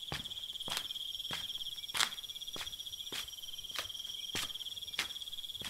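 Crickets chirping in a steady high trill, with footsteps about one and a half times a second.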